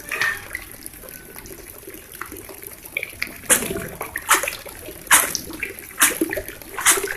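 Water splashing: a low watery wash, then about halfway through a run of sharp splashes, roughly one a second.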